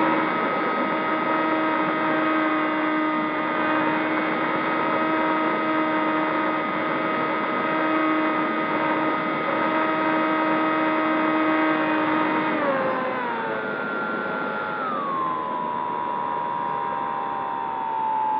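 Zohd Talon GT Rebel RC plane's electric motors and propellers whining at a steady pitch over a hiss. About two-thirds of the way through, the pitch falls in two steps as the throttle is pulled back.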